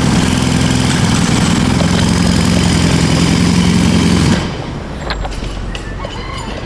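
A motor running with a steady, loud hum that stops about four seconds in, leaving quieter noise and a few clicks.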